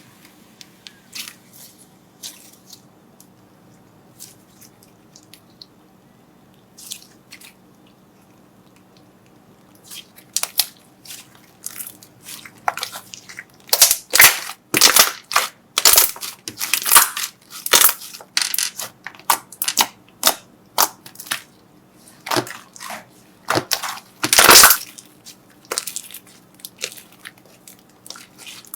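Crunchy slime being handled, giving sharp crackling pops. There are a few scattered pops at first, then a dense run of loud ones from about ten seconds in.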